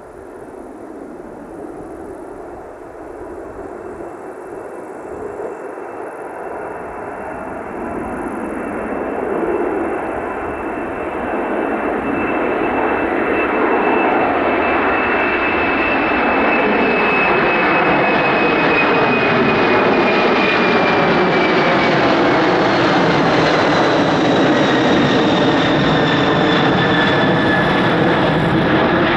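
Boeing 747-400 freighter's four jet engines at takeoff thrust during the takeoff run. The sound grows steadily louder over the first dozen seconds, then holds loud, with a high whine that slowly falls in pitch as the jet passes.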